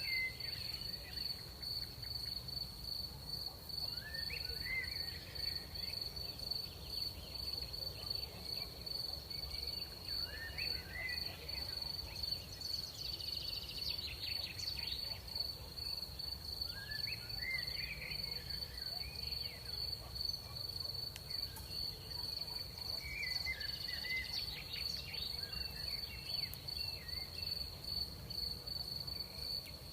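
Crickets trilling: a steady, high, continuous chirring. Short rising chirps from another animal come every few seconds over a low rumble.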